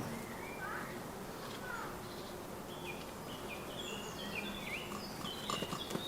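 Small garden birds chirping: a few scattered calls, then a quick run of short chirps in the second half, with a few faint clicks near the end.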